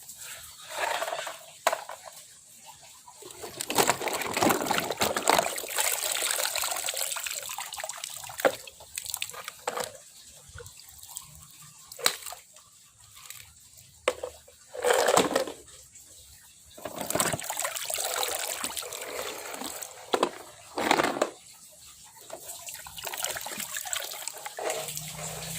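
Water sloshing and splashing in irregular bursts as muddy plastic toy vehicles are washed by hand, with a few sharp knocks of toys against each other or the container.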